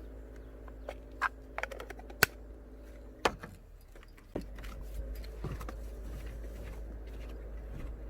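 A few scattered sharp clicks and knocks, like small objects being handled and set down. A low steady hum comes in about halfway through.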